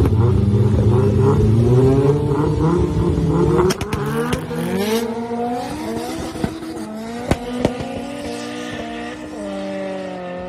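Two cars launching hard from a standing start in a drag race: engines revving high and accelerating away, pitch climbing in steps through gear changes. The sound then drops in level as the cars pull away down the strip, with a few sharp cracks along the way.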